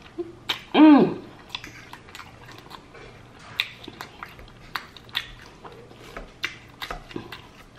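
Crispy buttermilk fried chicken being bitten and chewed close to the microphone: irregular sharp crunches and crackles of the fried coating, with a short hum of the eater's voice about a second in.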